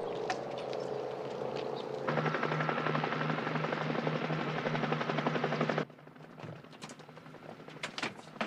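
Helicopter rotor beating loudly in a regular rhythm over engine noise. It starts about two seconds in, after a steady hum, and cuts off suddenly near six seconds, leaving quieter sound with a few clicks.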